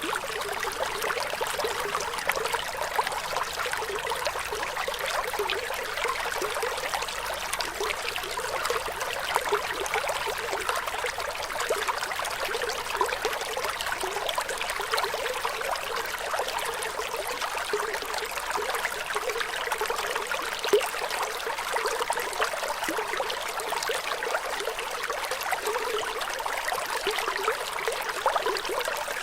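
Flowing water trickling steadily, an even splashing noise without pause.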